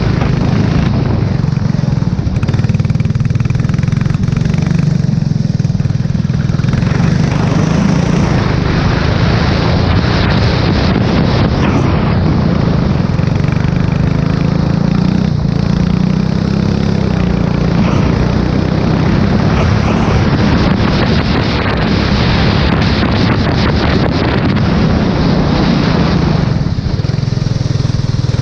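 Onboard sound of a racing engine lapping a wet track, its revs rising and falling as it drives. A strong hiss rides over it through most of the stretch and eases off near the start and near the end.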